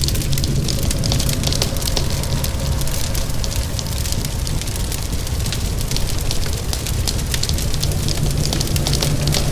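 Fireplace fire crackling with frequent sharp pops, blended with steady rain.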